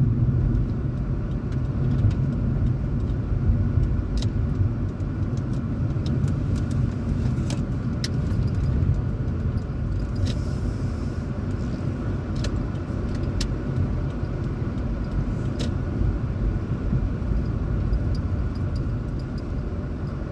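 Car driving, heard from inside the cabin: a steady low rumble of engine and tyres on the road, with the ventilation fan running and occasional light ticks.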